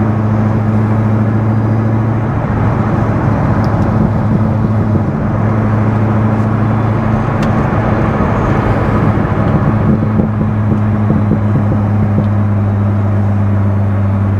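C6 Corvette Z06's 7.0-litre LS7 V8 cruising at a steady speed, a steady low engine drone with road noise, heard from inside the cabin with the windows up.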